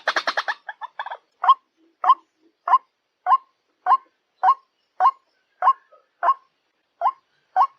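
White-breasted waterhen calling: a fast chatter breaks off in the first half-second, then a steady run of single sharp 'ruak' notes, about one every 0.6 s.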